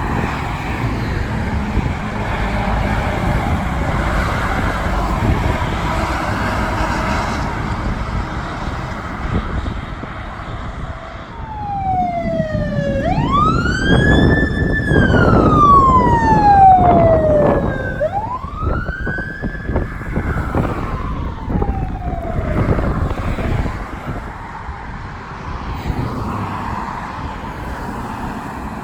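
Emergency vehicle siren on a slow wail, its pitch rising and falling about three times, over steady road and engine noise. The siren starts about 11 seconds in and stops about 23 seconds in.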